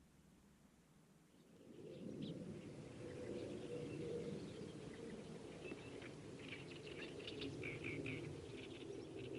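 Outdoor ambience fading in about a second and a half in: small birds chirping over a low, steady rumble, with the chirps coming more often near the end.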